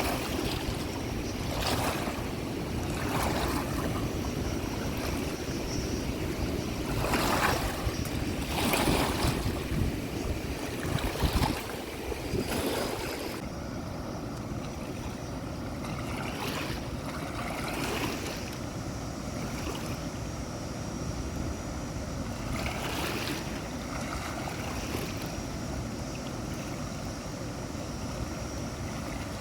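Flowing water rushing steadily, with wind buffeting the microphone. Several brief louder noises in the first half, the loudest about ten seconds in.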